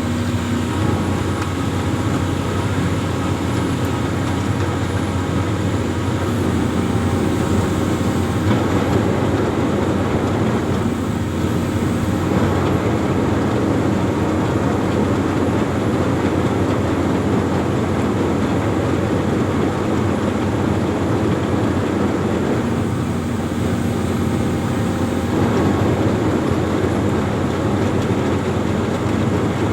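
Diesel engine of an amphibious excavator running steadily and loud, its note shifting slightly a few times.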